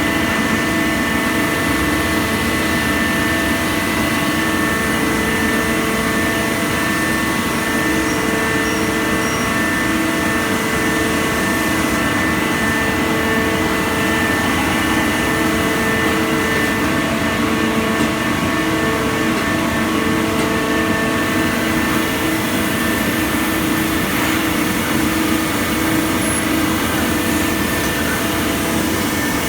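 Citizen A20 Swiss-type CNC lathe running: a steady machine hum and hiss with several constant whining tones, and a mid-pitched whine that cuts in and out every second or two.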